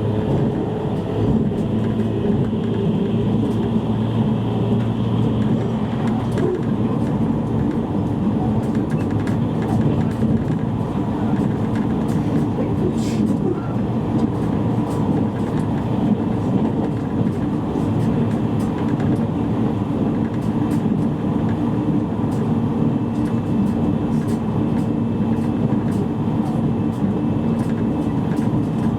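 Steady running noise heard inside a JR East E653 series electric train's motor car under way: wheels rumbling on the rails, with a low steady hum underneath and a few faint clicks.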